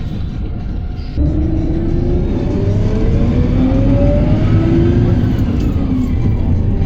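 PAZ-320405-04 city bus accelerating, heard from inside the cabin: about a second in the engine note swells and a whine climbs steadily in pitch, drops back near the middle as the gear changes, then starts climbing again.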